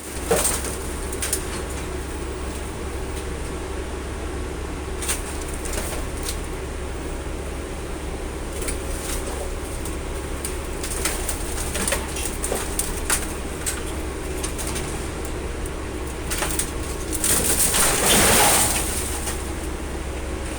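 Colmar P5 260 metal logger/baler running while it bales a car body: a steady low hum from the machine, with scattered short high squeaks and clicks, and a louder swell of grinding noise about seventeen seconds in.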